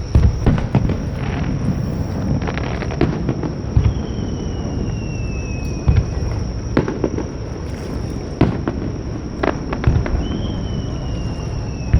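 Fireworks display: aerial shells bursting with sharp bangs at irregular intervals, some close together, over a steady low rumble. Two long whistles slide slowly downward in pitch, one starting about four seconds in and one about ten seconds in.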